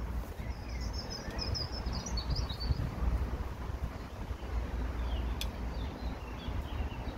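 Small birds chirping in short high bursts, over a steady low rumble of background noise, with a single sharp click about five and a half seconds in.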